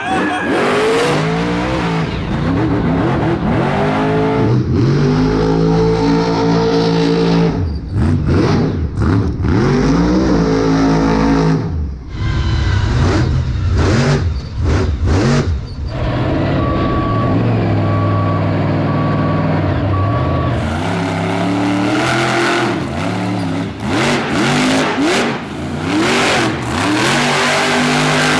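Son-uva Digger monster truck's supercharged V8 revving hard, over and over: the pitch climbs and falls repeatedly, with brief lifts off the throttle in between.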